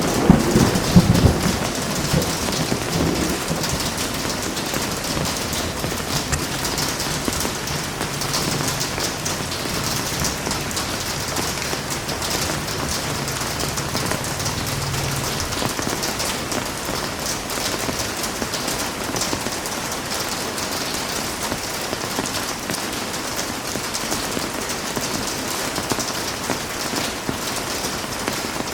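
Heavy rain falling steadily, a dense hiss. A loud thunderclap breaks at the very start and rumbles away over the first couple of seconds, and a faint low rumble of thunder comes again around the middle.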